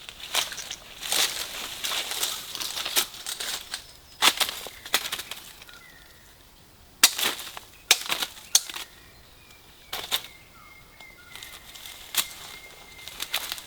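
Dry fallen leaf litter being pushed aside by hand, rustling and crackling, with a series of sharp snaps.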